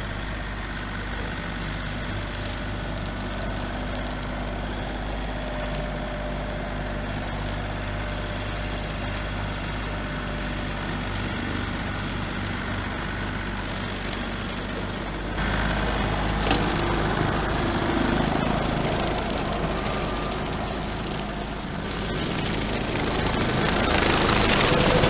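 Small tractor's engine running steadily, with a low, even hum. It gets louder and rougher about fifteen seconds in, and louder again near the end.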